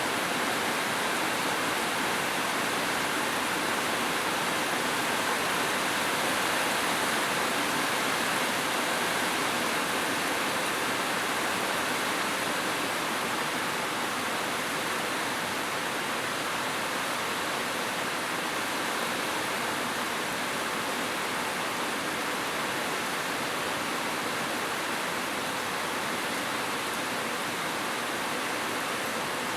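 Heavy rain falling steadily on a roof, an even hiss with no thunder.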